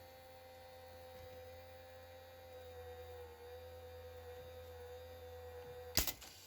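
A 1979 Panasonic PV-1200 VCR running in play, giving a steady low motor hum with a faint whine that wavers slightly. A sharp click about six seconds in. The transport is not powerful enough to pull the tape, which the owner puts down to worn drive belts.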